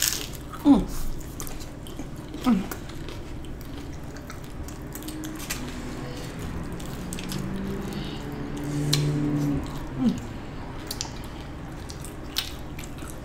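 Close-up chewing of crunchy hard-shell tacos: scattered crisp crunches and wet mouth clicks, with a few short falling hums of the voice.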